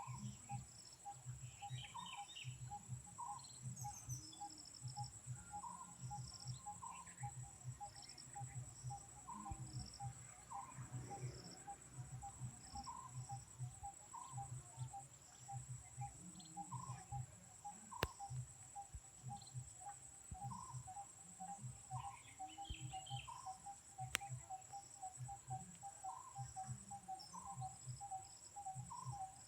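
Insects trilling steadily at a high pitch, over a fast, regular run of short repeated calls and a few brief bird-like chirps, with two sharp clicks partway through.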